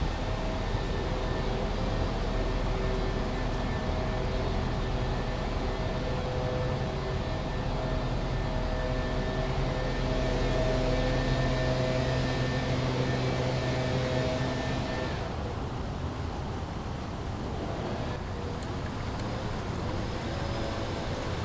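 Brook water flowing steadily, with a steady engine hum from passing city traffic or aircraft over it that fades out about 15 seconds in.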